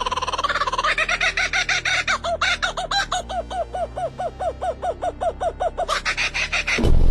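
A bird calling in a fast, even series of short hooked notes, about five a second, after a brief rapid trill. Just before the end a loud burst of music cuts in.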